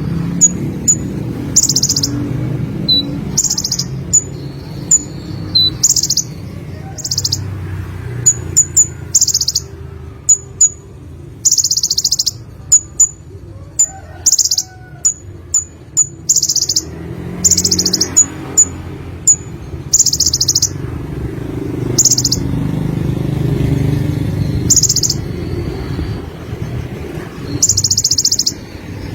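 Sunbird ('konin') singing: short, bright bursts of high twittering song again and again, broken up by sharp single tick notes, over a steady low background rumble.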